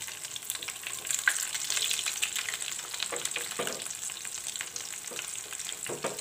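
Breadcrumb-coated potato tikkis shallow-frying in hot oil in a pan, sizzling and crackling steadily as they crisp, with a few knocks and scrapes of a metal spatula as they are turned.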